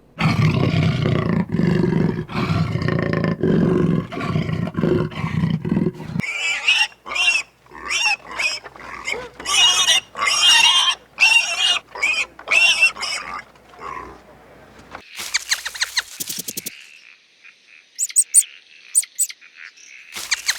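Animal calls: about six seconds of deep, loud, continuous calls from a large animal, then a run of shorter, higher-pitched calls with gaps between them, and near the end faint high chirps and trills.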